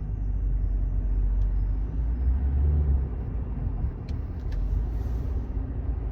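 Toyota Corolla driving, heard from inside the cabin: a steady low rumble of engine and road noise, swelling briefly about two to three seconds in.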